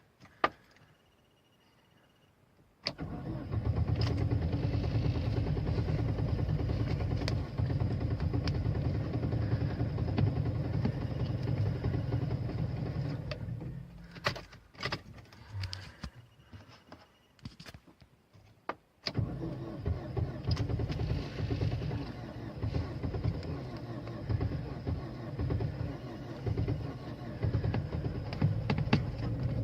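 A car engine being cold-started in extreme frost. It starts suddenly and runs with a strong low rumble, then dies away with a few short bursts, and about two-thirds of the way through starts again and keeps running.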